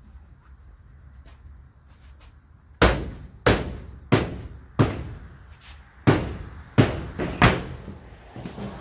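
Hammer blows on the old shed's structure: after a quiet start, four sharp strikes about two-thirds of a second apart, a short pause, then three more in quick succession and a lighter one near the end.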